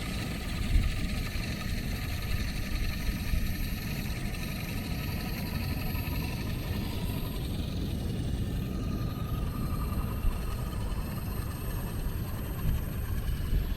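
Small 1/24-scale Axial SCX24 RC crawler driving: the brushed electric motor and gears whine faintly over steady low rumbling noise, with a few short knocks.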